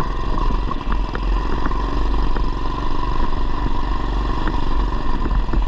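Mini bike's 212cc single-cylinder four-stroke engine running at a steady pace while riding, with scattered light ticks and rattles over it.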